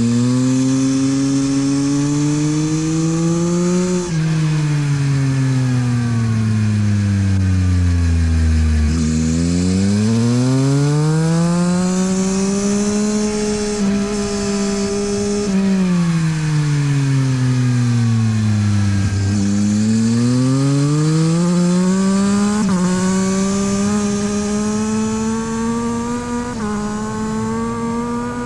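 Yamaha MT-09 SP's 890 cc three-cylinder engine through a LeoVince exhaust, ridden hard on track: the revs climb under acceleration, then fall away as the bike slows for a corner, and this happens again, with sudden short drops in pitch at the gear changes, two of them near the end as the revs build.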